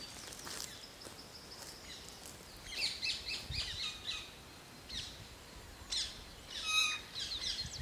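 Wild birds singing and calling in woodland: short chirps and quick falling trills from more than one bird, loudest in bursts about three seconds in and again around six to seven seconds.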